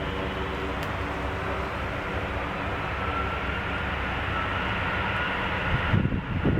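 Rolls-Royce RB211 turbofans of a Boeing 747-200 running at takeoff power: a loud, steady jet roar with a whine that slowly rises in pitch. A few low thumps come near the end.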